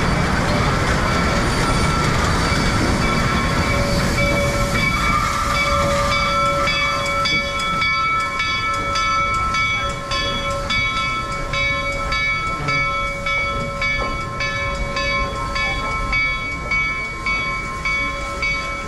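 Reading & Northern T-1 steam locomotive train approaching with a heavy rumble and steady ringing tones. From about seven seconds in, the locomotive's bell rings about twice a second.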